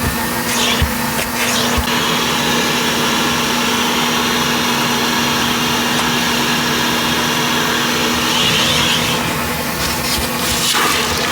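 Vacuum cleaner running steadily: a constant motor hum under an even rush of air.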